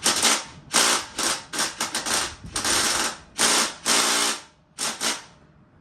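Impact wrench hammering in about eight short bursts on a 14 mm bolt that does not break loose.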